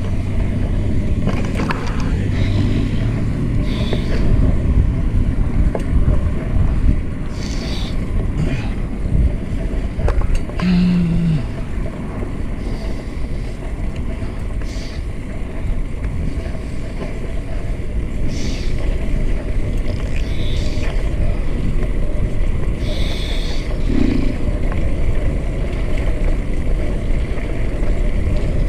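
Wind buffeting the microphone over the steady rumble of tyres on pavement while riding a fixed-gear bike, with a few short clicks and rattles.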